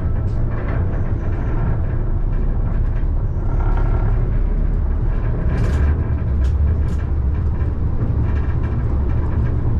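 Alstom Citadis tram running along the track, heard from the driver's cab: a steady low rumble, with three sharp clicks about six to seven seconds in.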